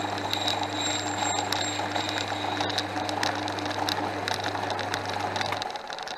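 Portass Model S mk2 lathe running, a steady motor hum under high tones and rapid irregular ticking. About five and a half seconds in the motor is switched off and the sound begins to die away as the lathe spins down.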